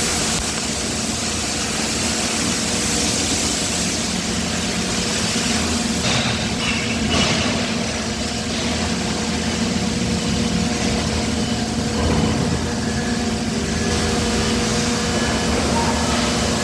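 Steady drone of heavy die-casting plant machinery, with a constant low hum running under a dense mechanical noise.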